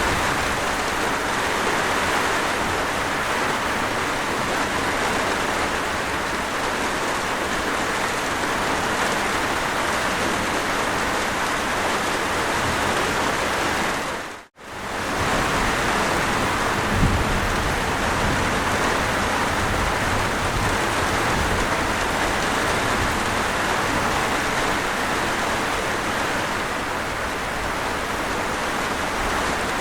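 Steady heavy rain falling on a surface, an even continuous hiss. About halfway through it fades briefly to silence and swells back in, and a soft low thump follows a couple of seconds later.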